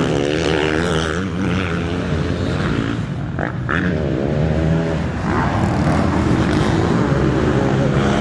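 Motocross bikes' engines revving as riders race past, the pitch climbing and dropping repeatedly with throttle and gear changes.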